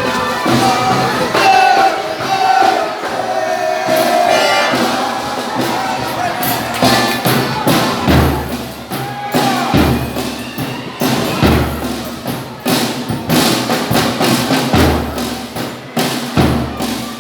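Folia de Reis music: voices singing over tambourine, with a deep drum struck about once every second and a half in the second half.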